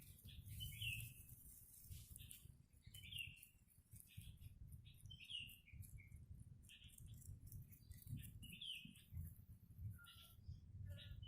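A small bird chirping faintly, short chirps repeated every second or two, over a low steady rumble.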